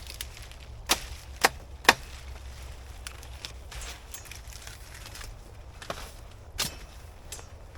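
Banana leaves being removed from the plant: three sharp snaps about half a second apart around a second in, then a few fainter snaps near the end.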